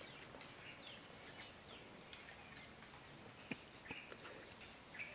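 Faint outdoor ambience with scattered short, high bird chirps over a faint steady high tone, and two soft clicks about three and a half and four seconds in.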